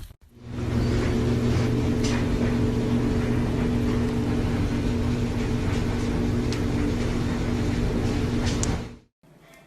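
A steady mechanical hum with a rushing noise, like a running motor, that starts just after the beginning and cuts off suddenly near the end.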